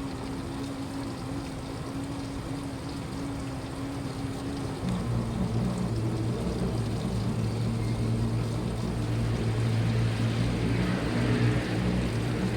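Washing machine running with a steady motor hum and water swishing. About five seconds in, the hum drops to a lower pitch and grows louder as the drum changes speed.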